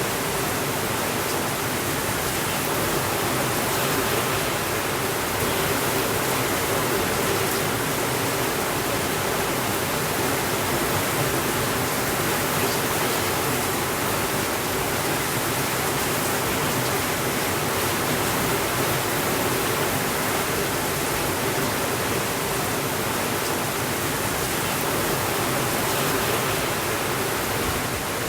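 Steady rainfall, an even hiss with no breaks or changes in level.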